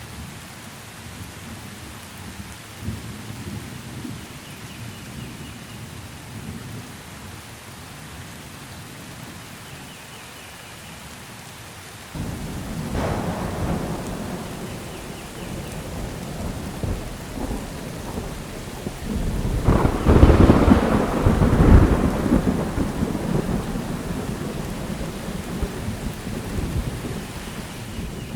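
Steady rain with thunder. A little before halfway a low rumble breaks in suddenly and swells to its loudest, with two heavy peaks about three quarters of the way through, then rolls away slowly under the rain.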